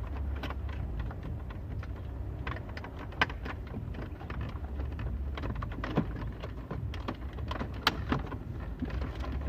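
Plastic dashboard trim and climate control parts being handled and pushed into place: scattered clicks, taps and knocks, the sharpest about three, six and eight seconds in, over a low steady rumble.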